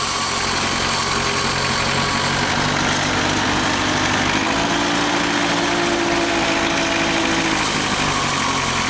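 Old Massey Ferguson tractor's diesel engine running steadily under way, its note rising a little about halfway through and settling back near the end.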